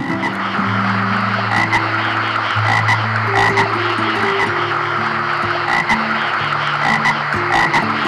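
A chorus of many frogs croaking, a dense mass of rapid pulsed calls.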